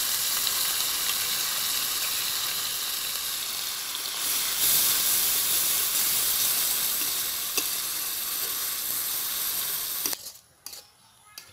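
Onion paste sizzling loudly as it fries in hot oil in an aluminium kadai, stirred with a metal spatula. The sizzle is steady and stops abruptly about ten seconds in.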